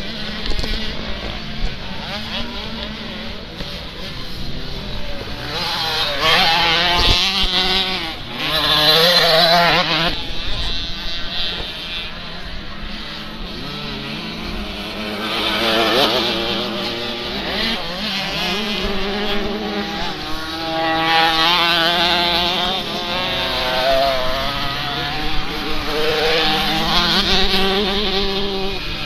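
Motocross bike engines revving hard and dropping back over and over as the bikes race past, their pitch climbing and falling, with louder passes several times.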